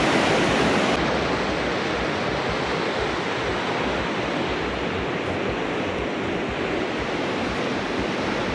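Fast-flowing Walker River, swollen with spring snowmelt: a steady, loud rush of water.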